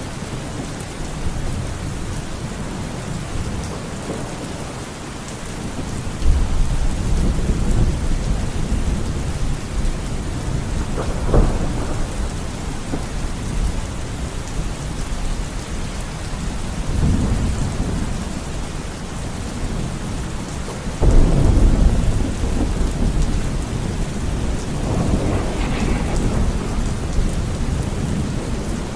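Steady rain with rolling thunder: several low rumbles swell and fade, a sharp crack comes a little over a third of the way in, and the loudest thunderclap breaks suddenly about two-thirds through.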